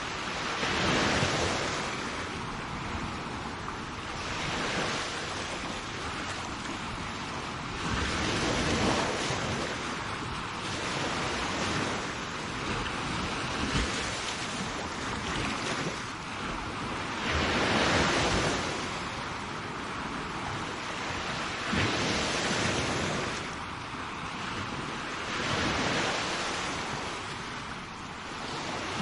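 Sea waves breaking and washing up the shore, a steady hiss of surf that swells with each wave every few seconds. Some wind rumble on the microphone.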